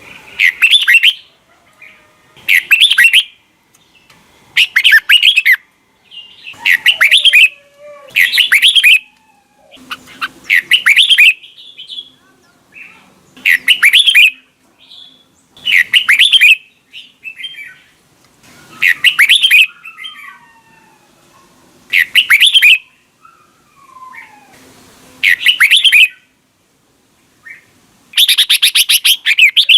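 Red-whiskered bulbul singing loud, rapid chattering song phrases about a second long, repeated every two to three seconds, with fainter whistled calls between them.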